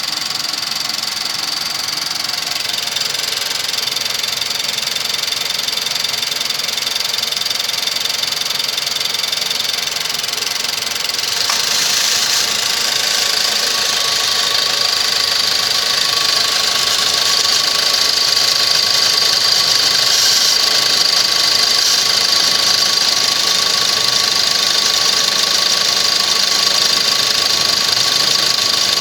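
Nissan MR16DDT 1.6-litre turbocharged four-cylinder engine idling steadily with a thin high whine over it. About eleven seconds in the sound gets a little louder and a second, lower whining tone joins and holds, consistent with the air conditioning being switched on; the owner is questioning this noise.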